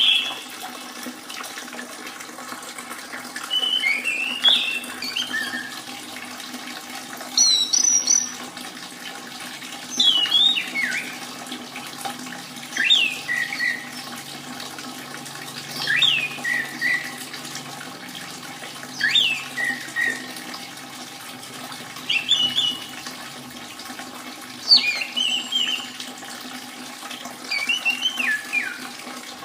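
Orange-headed thrush song: short phrases of slurred, falling whistles, roughly one every three seconds, over a steady trickle of running water.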